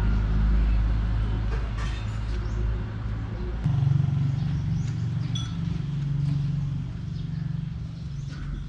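A motor vehicle's engine running steadily as a low hum, its pitch shifting about three and a half seconds in, with faint scattered chirps and clicks over it.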